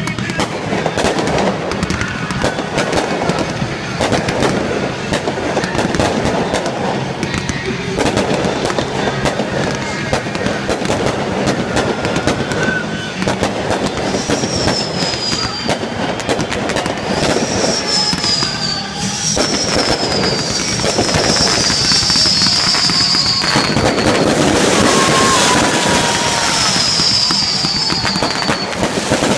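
Fireworks display bursting and crackling continuously, with music playing underneath. From about halfway through, a series of high falling whistles repeats every second or so.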